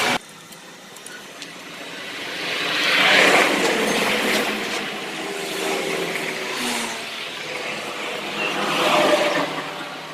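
Passing motor vehicles: engine noise swells and fades twice, loudest about three seconds in and again near the end.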